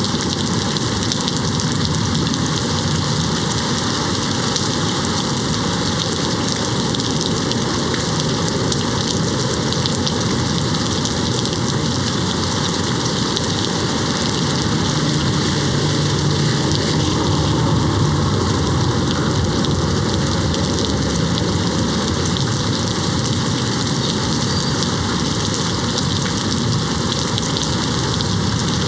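Steady rain hitting a window, an even, unbroken hiss of drops.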